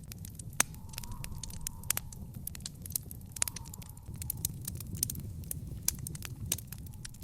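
Wood fire in an outdoor fire pit crackling, with irregular sharp pops and snaps over a steady low rumble of the flames; the loudest pop comes just over half a second in.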